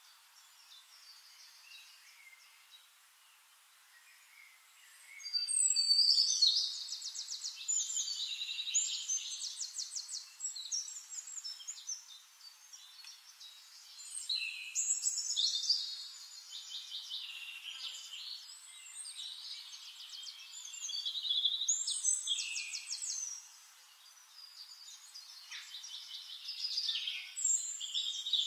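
Songbirds singing in bouts of rapid trills and chirps, each a few seconds long with short pauses between, the first starting about five seconds in. The sound is thin, with no low end.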